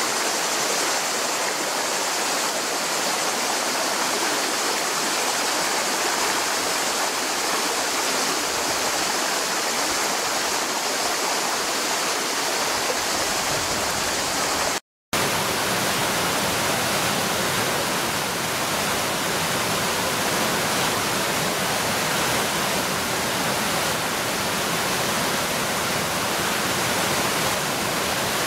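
Mountain river rushing steadily. About halfway through, the sound cuts out for a split second and comes back with a fuller, lower rush.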